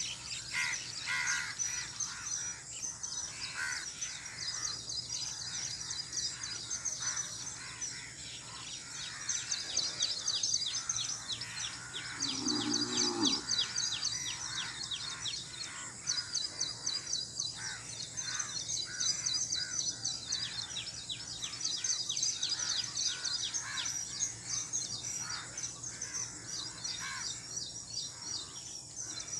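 Outdoor birdsong: several birds chirping and trilling in quick repeated notes, over a steady high hiss, with a short lower call about thirteen seconds in.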